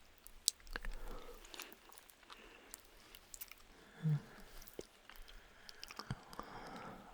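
Close-microphone wet mouth sounds, soft lip smacks and kisses, with quiet breaths and a brief low hum about four seconds in.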